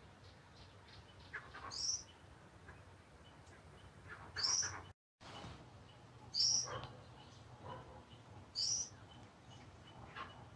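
A bird's short, high call, repeated four times about two seconds apart, each note sweeping down in pitch.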